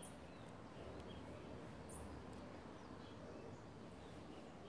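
Faint outdoor background with a few short, high-pitched bird chirps every second or two.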